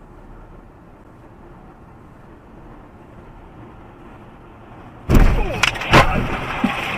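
Steady car road noise, then about five seconds in a sudden loud vehicle collision, with sharp cracks about half a second and a second after the first impact.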